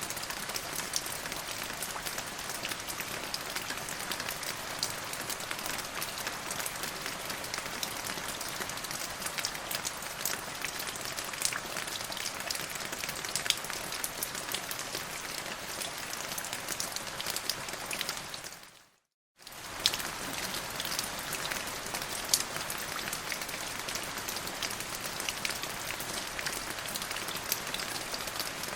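Steady rain falling on a surface, a dense patter of individual drops. About two-thirds of the way through it fades out to silence for about half a second, then comes straight back.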